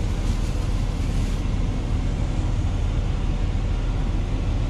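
Steady low rumble of a semi truck's diesel engine idling, heard inside the cab.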